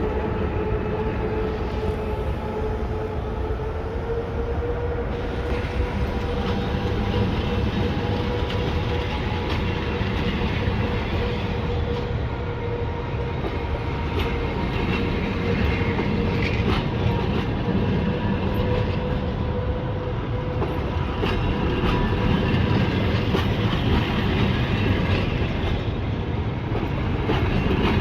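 Passenger train hauled by an EP2K electric locomotive pulling out of the station. The coaches roll by with a steady rumble and some wheel clatter over rail joints, under a steady whine that rises slightly in pitch over the first few seconds. It grows louder near the end.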